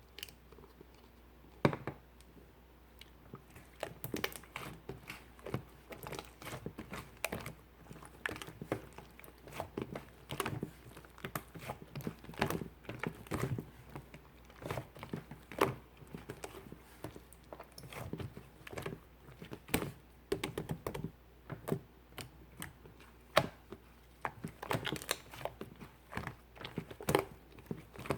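Slime being kneaded and mixed by hand, making irregular sticky clicks, pops and squelches.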